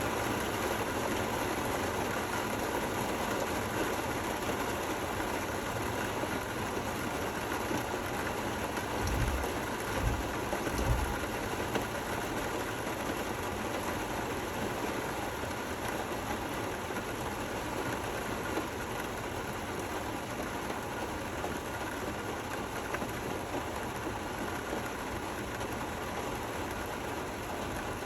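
Steady rainfall, an even hiss without music or thunder, with a few brief low thuds about a third of the way in.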